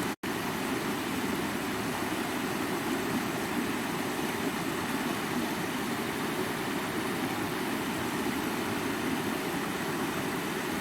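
Rushing stream water flowing and splashing over rocks in a steady, full rush. The sound cuts out for an instant just after the start, as at a splice between clips.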